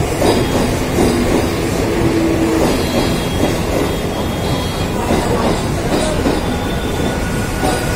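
Mumbai suburban electric local train running along the track, a steady rumble and clatter of the wheels with faint, thin squealing tones coming and going.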